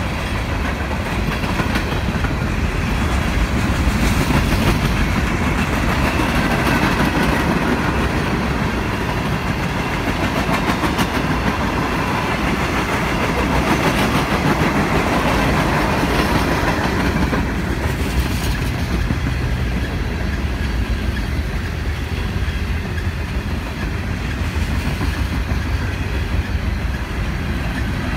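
Freight cars of a long train rolling past close by: the steady noise of steel wheels running over the rails.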